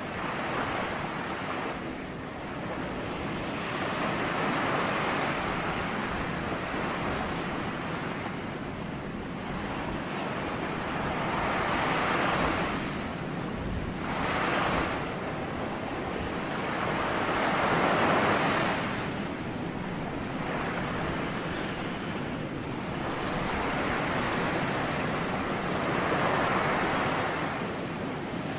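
Ocean surf: waves swelling and washing in, rising and falling about every three to four seconds over a steady hiss.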